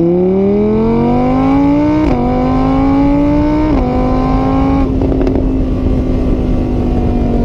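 Car engine accelerating hard, its pitch climbing and dropping back at each of two gear changes, then holding a steady speed for the last few seconds.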